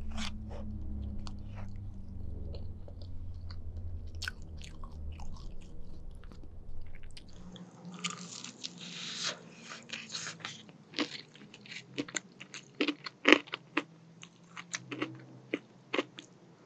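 Close-up mouth sounds of eating: soft chewing of a spoonful of hotcake over a low hum, then about eight seconds in a loud crunchy bite into the crisp skin of fried chicken, followed by crunching chewing with sharp crackles.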